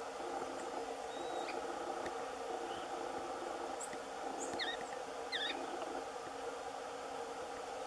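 A bird gives a few short, sharp, squeaky call notes, scattered, with the two clearest about four and a half and five and a half seconds in, over a steady low background hum.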